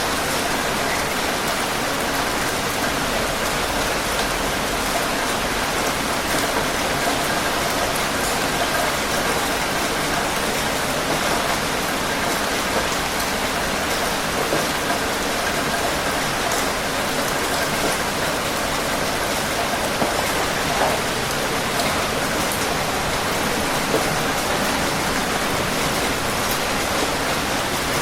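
Steady heavy rain falling, a dense even hiss with scattered individual drops ticking through it.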